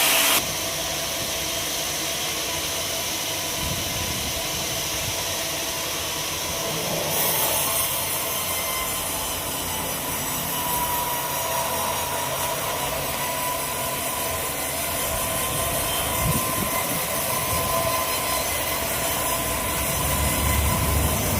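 Sawmill machinery running, a steady mechanical noise with a faint whine and a hiss.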